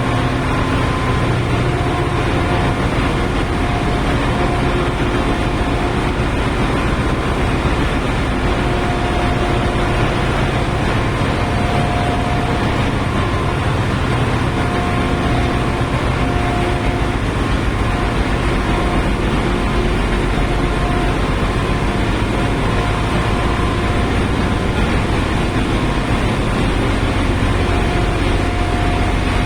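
Ship's engine room machinery running: a loud, steady drone, with a faint whine that comes and goes.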